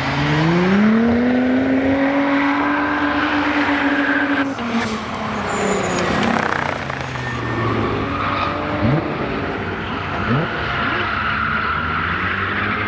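Twin-turbo VR38DETT V6 engine of a drifting Nissan 240SX, revving up over about the first second and a half and held high, then dropping off about four and a half seconds in with a sharp crack, over a hiss of tyre noise.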